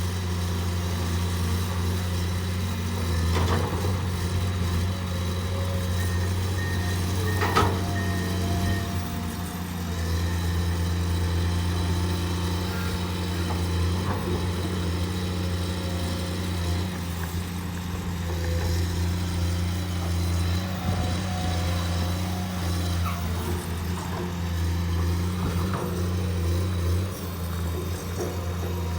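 Diesel engine of a hydraulic excavator running steadily at work, with two brief knocks several seconds in.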